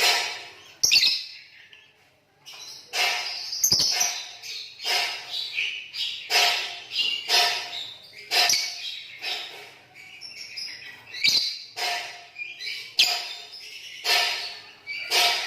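Green lovebirds calling in a quick run of short, shrill chirps, one or two a second, with a short break about two seconds in.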